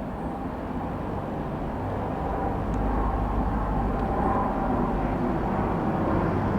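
Dassault Falcon 20 jet passing overhead: a steady rushing jet noise with a faint whine, growing gradually louder as it approaches.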